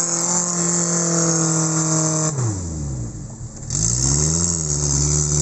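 Off-road vehicle's engine revving hard: held at high revs, dropping off sharply a little over two seconds in, then revving back up and holding high again.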